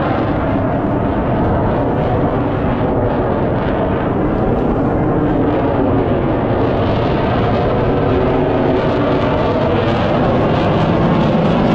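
Steady, loud engine drone with no clear rise or fall.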